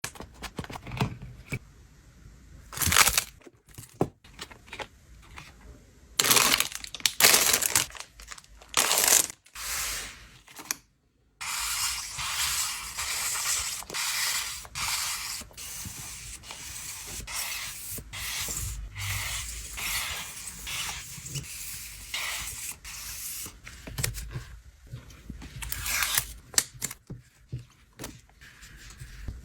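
Paper merchandise cards and their packaging being handled and put away: rustling, crinkling and tearing sounds in irregular bursts, then a longer stretch of steady rustling with small taps.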